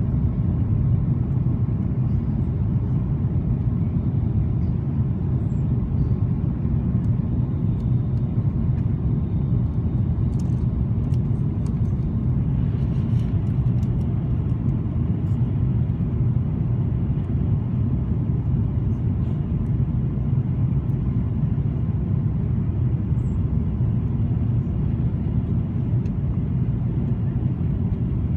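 Steady low rumble of cabin noise inside an Airbus A330-200 airliner: engine and airflow noise heard from a window seat.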